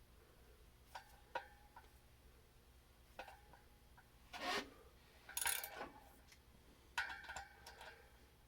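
Small metal parts being handled during brake rotor fitting: a handful of short metallic clicks and scrapes, some ringing briefly, as the rotor bolts are set in and run up by hand.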